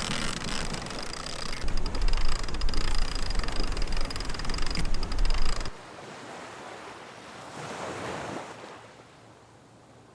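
Wind buffeting the microphone over sea water rushing past a sailboat under way, then about six seconds in the sound cuts to a much quieter, softer rush of water and air.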